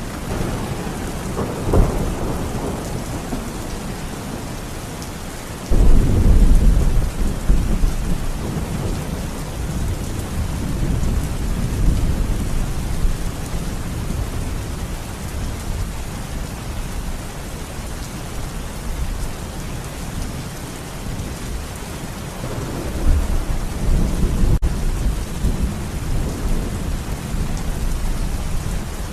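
Thunderstorm: steady rain with thunder. A sudden loud thunderclap about six seconds in rumbles on for several seconds, a shorter rumble comes near the start, and another long rumble follows near the end.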